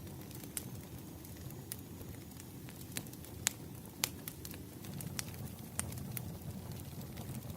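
Campfire of burning firewood crackling, with sharp irregular pops over a low steady rumble of the flames.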